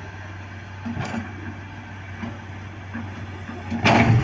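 Heavy vehicle engine running steadily at a low hum, with a short knock about a second in and a loud burst of clatter near the end.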